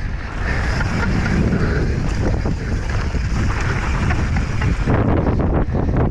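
Wind buffeting the microphone with a steady rush, and a mountain bike rattling and knocking over rough ground during a fast descent.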